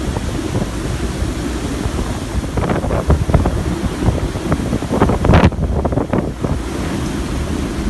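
Hurricane-force wind buffeting the microphone: a loud, low rumble with ragged gusts that peak about three seconds in and again near five seconds in.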